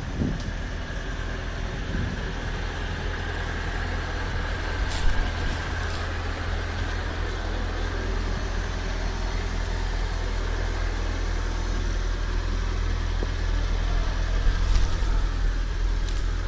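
Off-road vehicle's engine running steadily with a low hum, with a few short knocks and clatters about five seconds in and again near the end.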